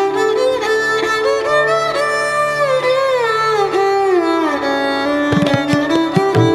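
Background music in an Indian classical style: a bowed string instrument plays a sliding, ornamented melody over a steady drone, and hand-drum strokes come in about five seconds in.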